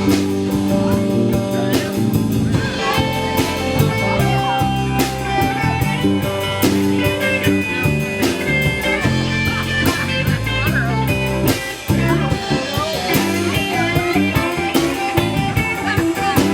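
Live band playing an instrumental break: a guitar lead winding over bass and a steady drum beat.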